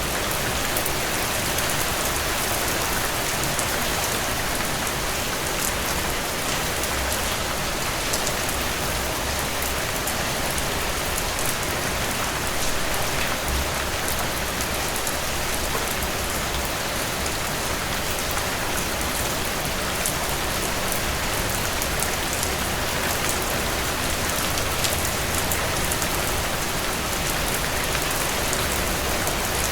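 Steady rain falling, an even hiss with fine ticks of individual drops.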